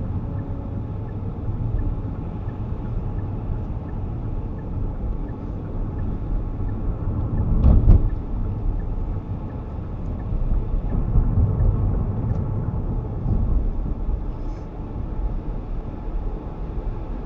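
Road noise inside a moving car's cabin: a steady low rumble of engine and tyres, swelling louder with a sharp knock about eight seconds in.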